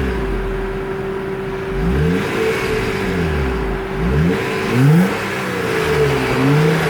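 2005 Acura TL's V6 engine through its stock exhaust, idling and revved in several quick blips, the pitch rising and falling back to idle each time.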